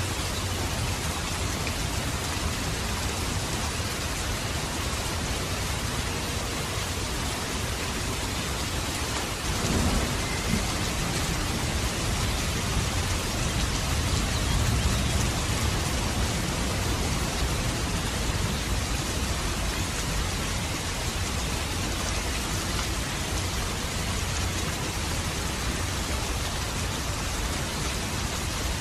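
Steady rain with a low thunder rumble that swells about ten seconds in and fades over several seconds.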